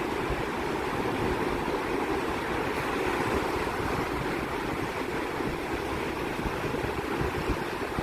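Sea surf washing in and breaking as a steady rushing noise, with some wind buffeting the microphone.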